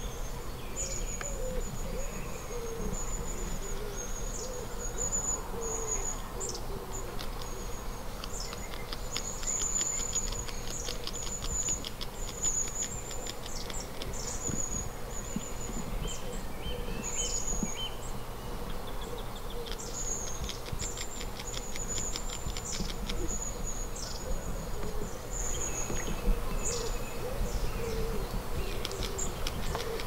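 Birds calling and singing outdoors: many short, high, thin notes and fast trills, with short low notes repeated underneath.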